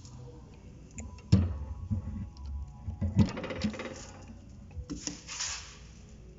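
Metal knocks and a rattling scrape as the chrome air-supply regulating handle on a cast-iron stove-fireplace is worked, with two sharp knocks about a second and three seconds in.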